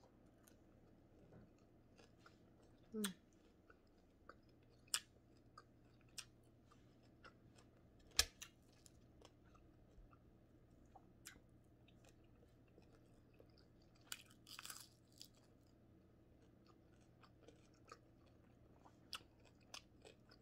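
Faint chewing of crispy fried bigeye scad (matambaka), with scattered sharp crunches and mouth clicks; a short hum about three seconds in.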